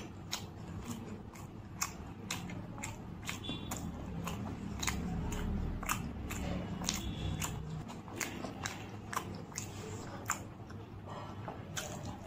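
Close-miked eating of steamed momos dipped in chutney: wet chewing with sharp mouth clicks and smacks, roughly two a second, irregular.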